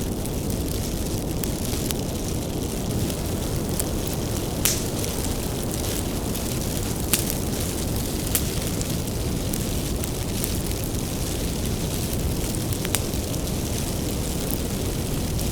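Wood bonfire burning: a steady low rush of flames with sharp crackles and pops from the firewood, scattered a second or more apart.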